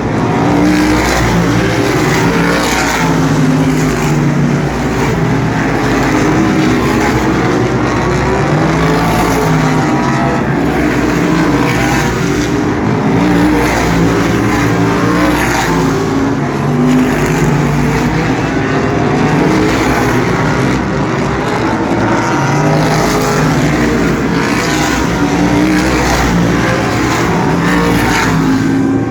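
A field of asphalt sprint cars racing on an oval. Several loud engines run together, their pitch rising and falling again and again as the cars go through the turns and down the straights.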